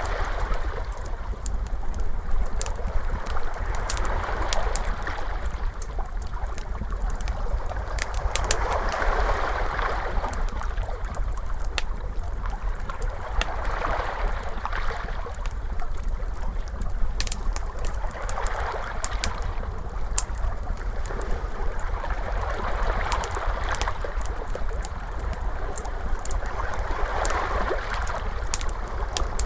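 Ocean waves washing in and out, a swell about every four and a half seconds, mixed with a crackling fire giving scattered sharp pops and snaps.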